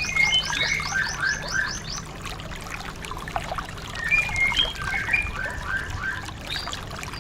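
Pleci (white-eye, Zosterops) song: a fast run of short rising whistled notes for the first couple of seconds, then lower twittering chirp phrases about four to six seconds in. A faint trickle of water runs underneath.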